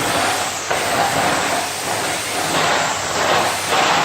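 Vacuum cleaner running, a steady loud whooshing hum that swells and eases a few times as it is pushed back and forth.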